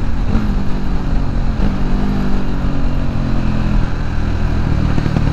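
KTM RC 390 single-cylinder engine pulling hard at high speed in fifth gear, with heavy wind rumble on the microphone.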